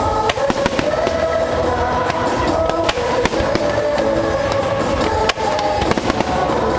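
Fireworks bursting with many sharp pops and crackles over loud music from the show's sound system.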